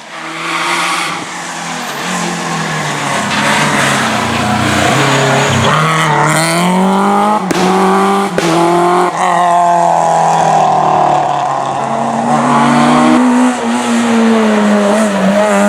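Rally car engine revving hard, its pitch repeatedly dropping and climbing through gear changes, with two sharp cracks about halfway through.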